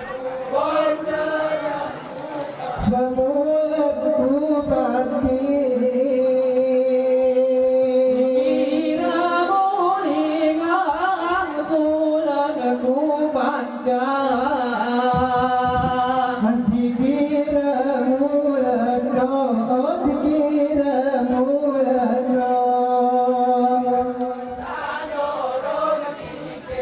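Group of men singing a Gayo Saman song in unison in high voices, with long held notes that waver and bend in an ornamented melody.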